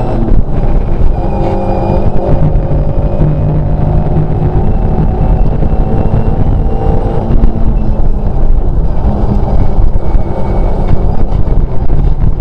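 Škoda 130 LR rally car's rear-mounted four-cylinder engine, heard from inside the cabin, pulling hard at full throttle along a stage, its note climbing and breaking off at the gear changes, over steady road and tyre noise.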